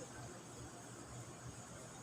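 Faint steady background noise with a low hum and a high hiss, and no distinct event.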